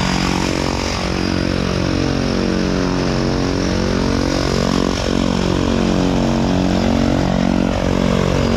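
Propeller jump plane's engines running steadily: a loud, continuous drone whose tones waver slowly against each other.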